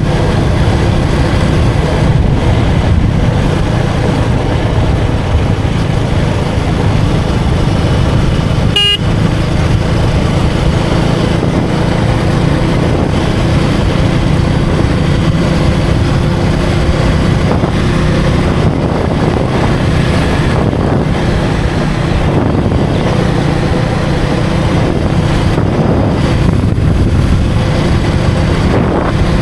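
KTM Duke 250's single-cylinder engine running steadily at road speed, with wind rushing over the microphone and road noise. A short vehicle horn toots once, about a third of the way through.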